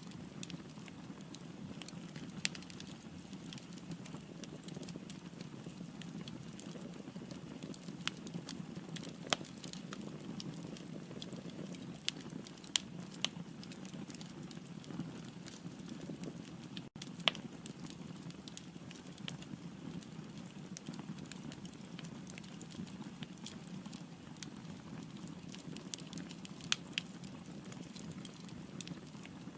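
Firewood burning in a fireplace: a steady low rush of flames with irregular sharp crackles and pops scattered throughout.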